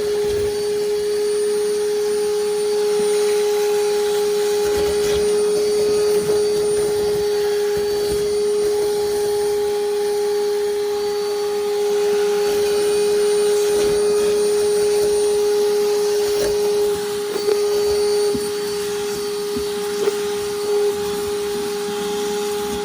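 Vacuum running steadily with a constant hum and rushing air as its hose sucks fiberglass dust and debris from under a boat floor, with a few knocks of debris near the end. Its filter is packed with fiberglass dust, so the suction is weak.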